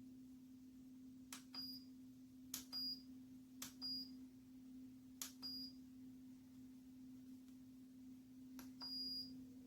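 Five button clicks on a portable rechargeable fan, each answered by a short high electronic beep, the last one longer, over a faint steady hum.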